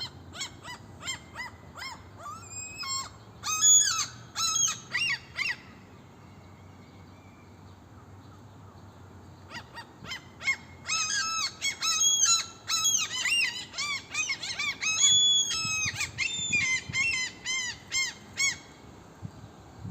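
Gulls calling: a run of short, arched, pitched calls, several a second. The calls come in two bouts with a pause of a few seconds between them, and the second bout is louder.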